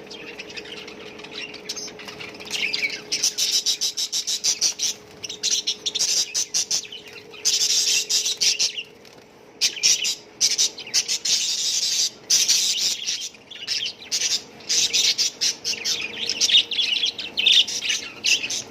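A flock of caged budgerigars chattering, many rapid high chirps and squawks overlapping, with a brief lull about halfway through.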